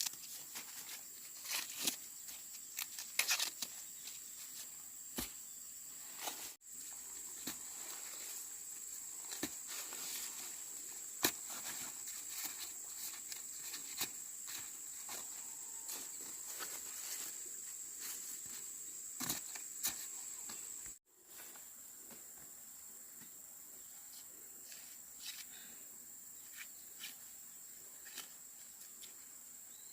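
Outdoor insects droning steadily at a high pitch, with scattered light clicks and rustles over it; the sound drops out abruptly twice, about a third of the way in and again about two thirds in.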